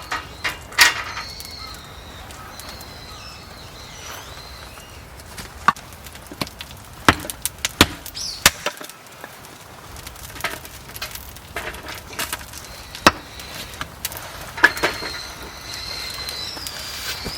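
Irregular sharp wooden knocks and cracks, firewood being chopped or split by hand, with a bird calling at the start and again near the end.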